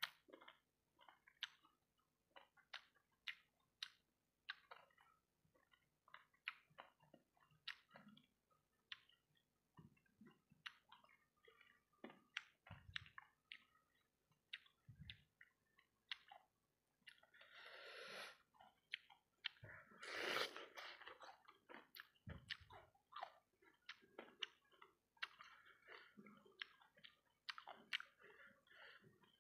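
Faint close-up eating sounds of fried rice balls in a sticky sambal sauce: chewing and lip smacks as many short separate clicks, with a longer wet, noisy stretch a little past halfway.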